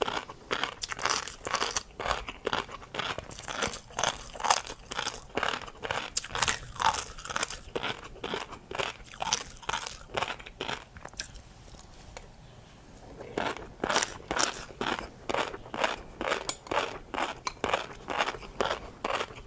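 Close-miked chewing of tobiko fish roe with a crunchy seafood topping: rapid crisp crunches and pops, several a second. The chewing breaks off for about two seconds past the middle, then resumes.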